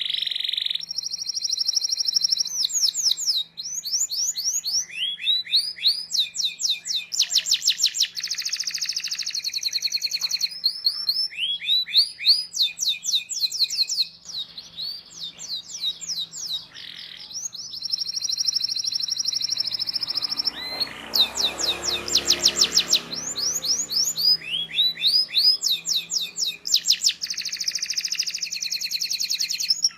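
Domestic canary singing a long unbroken song: rapid trilled rolls and fast repeated chirp phrases, high-pitched, the sharp 'cuit cuit' rolling song kept as a tutor recording for young canaries. A faint steady low hum runs underneath, and a brief rushing noise comes in about twenty seconds in.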